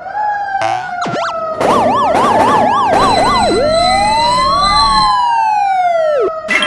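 Electronic police-style sirens sounding over one another. A fast yelp starts about a second and a half in and gives way to a slow rising and falling wail, over a steady tone that slowly sinks in pitch.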